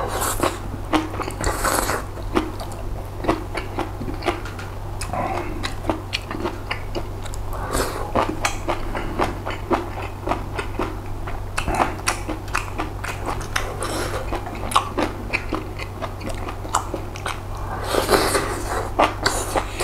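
Close-up mukbang eating sounds: a person chewing and biting a mouthful of grilled pork-belly rolls and spicy noodles, with many small wet mouth clicks. There are a few short hissing sucks near the start and again near the end.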